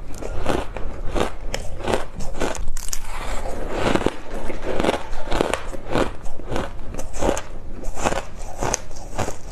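Ice being bitten and chewed close to the microphone: a run of crisp crunches, about two to three a second, thickening into continuous crunching in the middle.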